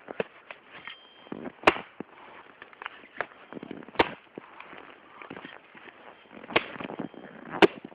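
Axe chopping frozen firewood: four loud sharp strikes a second or two apart, with lighter knocks and cracks of wood between them.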